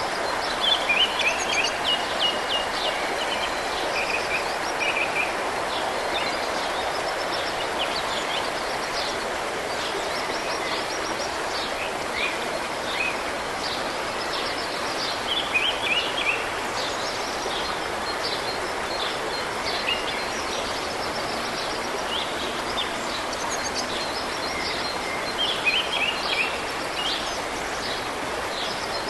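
Steady rushing of river water, with birds chirping and trilling over it. The birdsong comes in short clusters: about a second in, around the middle, and again near the end.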